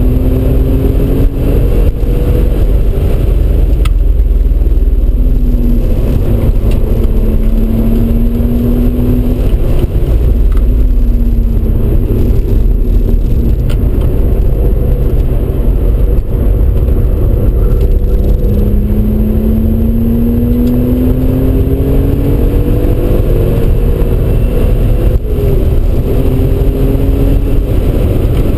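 Audi RS4 B5's twin-turbo 2.7-litre V6 pulling hard, heard from inside the cabin over heavy road and wind rumble. The engine note rises in several long sweeps, falling back between them.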